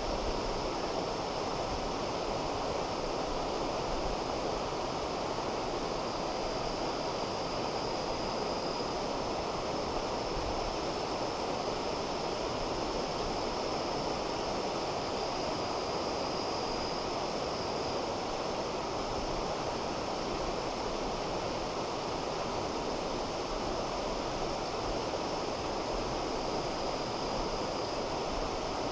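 River water flowing in a steady, even rush, with a faint high-pitched tone held steadily above it.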